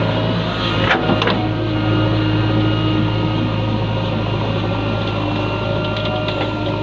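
Machine engine running steadily at a constant speed, with a couple of sharp clicks about a second in.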